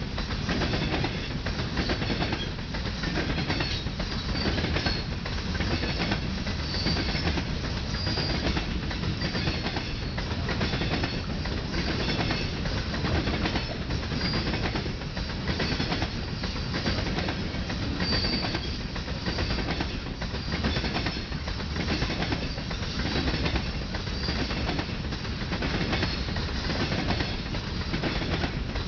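Freight train of covered hopper cars rolling past at speed, its wheels clicking over the rail joints in a steady clickety-clack over a continuous rumble, with brief faint high squeaks of wheel on rail here and there.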